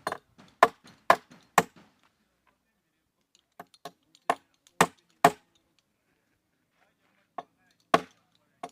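Hammer blows on wood, about two strikes a second in short runs with pauses between.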